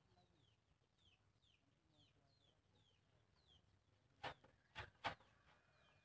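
Faint, high, falling chirps from a bird, repeated about twice a second, with three sharp knocks a little over four seconds in.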